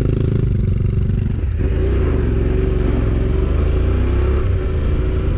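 Motorcycle engine running under way, with wind rushing over the microphone; about a second and a half in the engine note briefly drops and shifts, like a gear change, then climbs slowly as the bike picks up speed.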